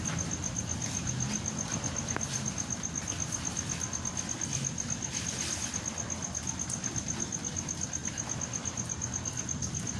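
A cricket chirping steadily in a fast, even pulse of one high note, over a low steady rumble.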